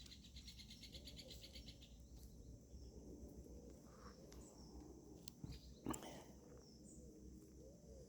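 Faint farmyard animal sounds: soft, low murmuring calls, typical of hens, go on throughout. A rapid high trill of pulses runs through the first two seconds or so, and a sharp click comes about six seconds in.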